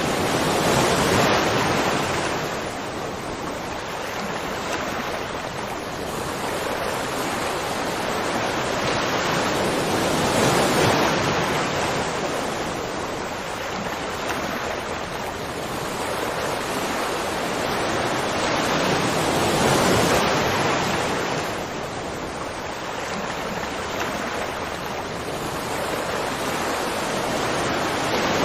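Waterfall: a steady rush of falling water, swelling and easing about every ten seconds.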